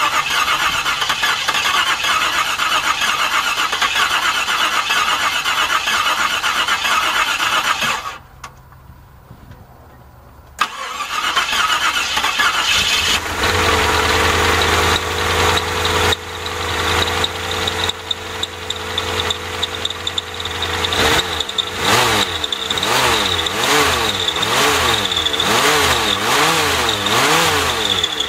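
1989 Jeep Grand Wagoneer's AMC 360 V8 being cranked by the starter for about eight seconds without firing, as it is restarted after stalling. After a short pause it cranks again and catches about three seconds later, then runs, its speed rising and falling over and over in the later part.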